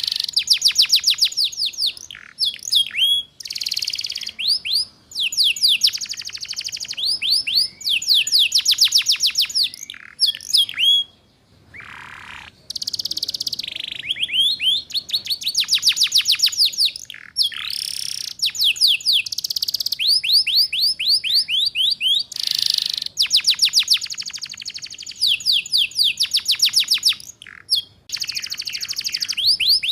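Canary singing fast ngeriwik-style trills, each a rapid run of high, downward-sweeping notes lasting a second or two, with short gaps, occasional single swooping notes and a few harsh, rasping notes.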